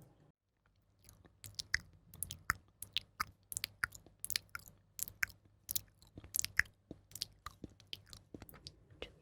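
Close mouth sounds: crisp, irregular wet clicks and smacks, a few a second, starting about a second in after a brief hush.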